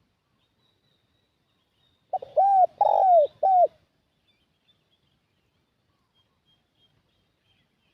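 Spotted dove (tekukur) cooing close by: one phrase of four arched notes about two seconds in. Faint high chirps of small birds sound at times in the background.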